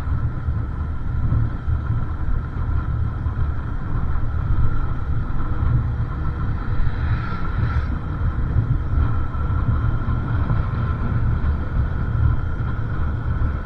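Wind rumbling on the microphone over the steady running of a motorcycle on the move, with a brief rise in hiss about halfway through.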